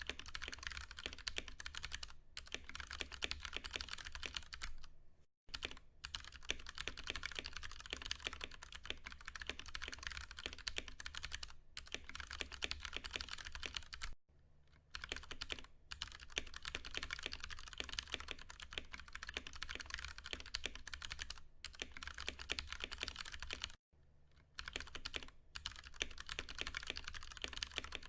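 Steady fast typing on a Ducky One 2 Mini mechanical keyboard with Cherry MX Brown tactile switches: dense rapid key presses, broken by three short pauses.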